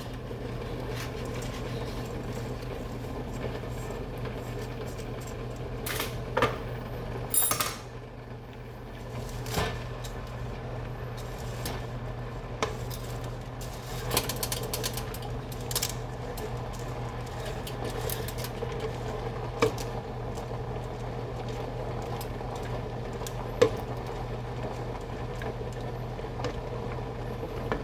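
A utensil knocking and clinking against a metal pot now and then as pasta is stirred in boiling water, over a steady low hum.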